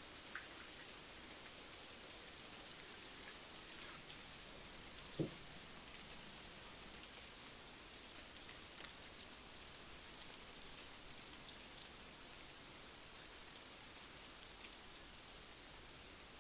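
Light rain pattering steadily, with a single sharp knock about five seconds in.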